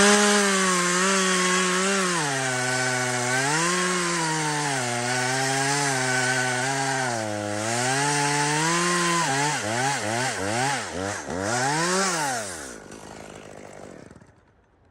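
Gas chainsaw at full throttle cutting spruce wood. Its pitch sags and recovers several times as the chain bites under load. Near the end it is revved up and down quickly, about twice a second, then the throttle is let go and the engine dies away.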